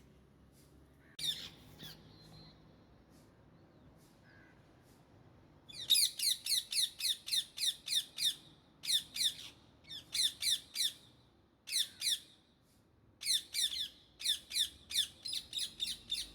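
Indian ringneck parakeet calling: one short high call about a second in, then from about halfway through, fast runs of shrill repeated notes, about five or six a second, in bursts broken by short pauses.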